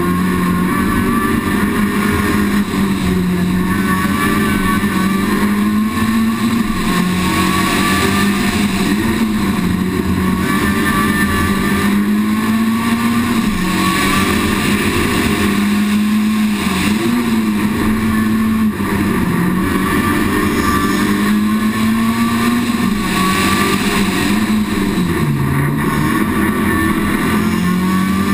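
Citroën Saxo VTS rally car's four-cylinder engine running hard under racing load, recorded on board. Its note rises and falls continually as it accelerates out of bends and lifts off into them, dropping lower twice in the second half.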